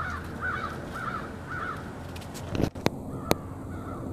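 A bird calling four times in quick succession, about half a second apart, with fainter calls again near the end. About three seconds in, a short thump and two sharp clicks are the loudest sounds.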